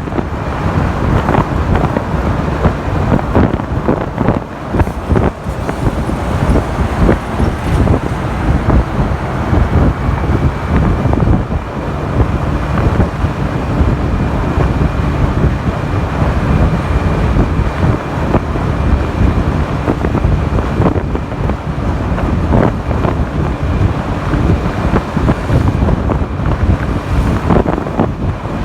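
Wind buffeting the microphone of a moving motorcycle, a dense fluctuating rush over road and traffic noise, with a faint steady high whine.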